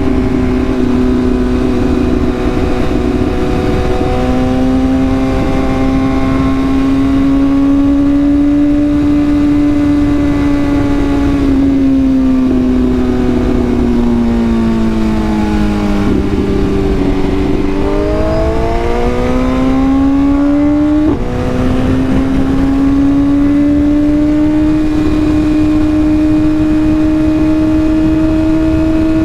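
Sport motorcycle engine running at steady, fairly high revs while riding, over a low wind rush. The pitch sags slowly, climbs back, then drops abruptly about two-thirds of the way through, as at a gear change, before holding steady again.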